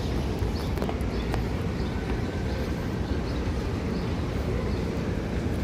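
Steady outdoor rumble, strongest in the low end, with scattered faint short clicks and chirps.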